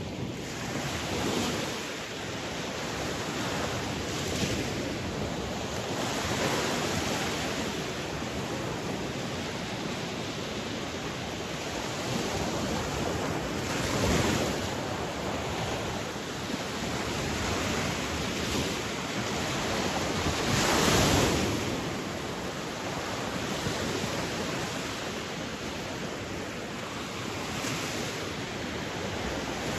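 Sea waves breaking and washing on a shore, a steady rushing noise that swells and falls, with the biggest surges about a third of the way in and about two thirds of the way in.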